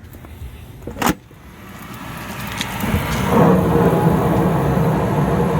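A sharp click about a second in, then the gas heater's draft inducer fan spins up and, about three and a half seconds in, the natural-gas burners light at once and run with a steady rumble and a held hum. The burners fire immediately on restart after an ignition lockout.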